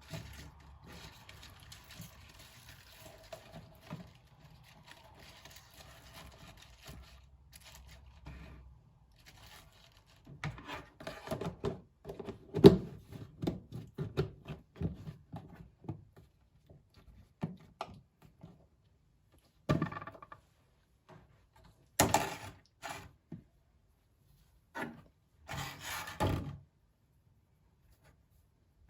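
Household handling sounds: a faint low hum at first, then scattered knocks, thuds and scrapes of objects being moved and set down, one sharp knock standing out about a third of the way in.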